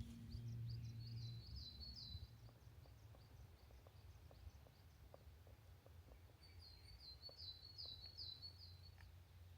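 Faint birdsong in the forest: a songbird sings two short phrases of quick repeated high notes, a few seconds apart, over a quiet background with scattered faint ticks.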